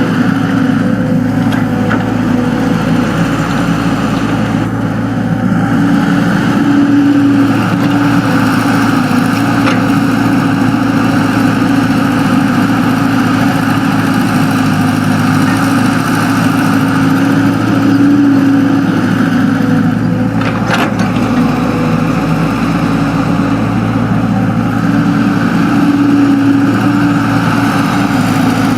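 Excavator's diesel engine running steadily, its hum swelling a little every several seconds as it works.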